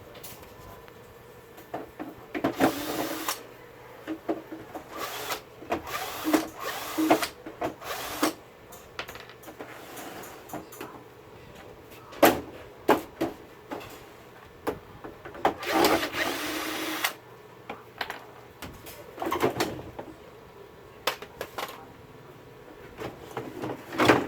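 Short runs of a small power tool, the longest about a second and a half near the middle, mixed with sharp clicks and knocks of parts being handled on a workbench.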